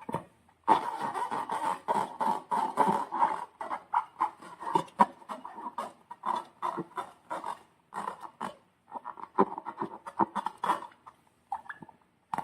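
Slime being squeezed and stretched by hand: dense, irregular squelching with many small popping clicks as air pockets burst, pausing briefly twice near the end.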